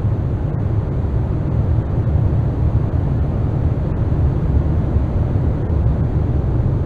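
A loud, steady, deep rumbling drone of noise, heaviest in the bass, with no melody or beat: a dark ambient soundscape of apocalyptic rumble.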